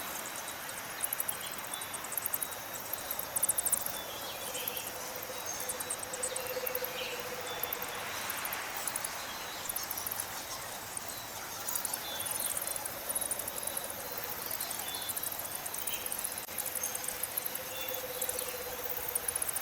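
Evening chorus of crickets and other insects trilling in rapid high pulses, with scattered short chirps and a faint steady low tone that comes and goes.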